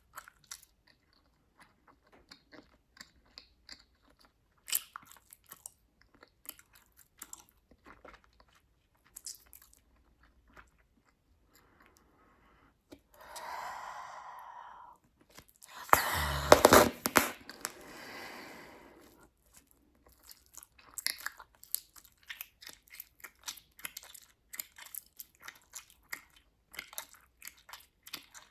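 Bubblegum being chewed with wet clicks and small snaps. About halfway through comes an airy stretch as a bubble is blown, then a loud pop with a deep thump a little later, its loudest moment, trailing off before the chewing clicks resume.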